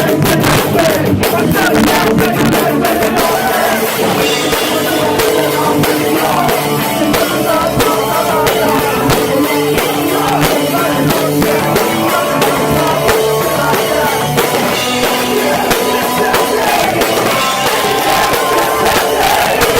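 A live hardcore band playing at full volume: drum kit, electric guitar and vocals, recorded on a cheap phone whose microphone makes the sound harsh and muddy.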